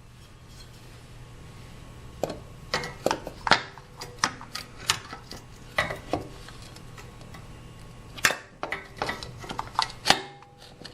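Irregular metallic clinks and knocks of hand tools and metal parts being handled, starting about two seconds in, over a steady low hum.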